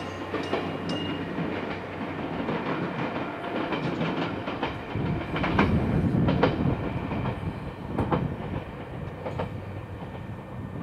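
Izuhakone Railway 1300 series electric train (ex-Seibu New 101 series) running away over the rails, its wheels clicking over rail joints with a rumble that swells about halfway through and then fades.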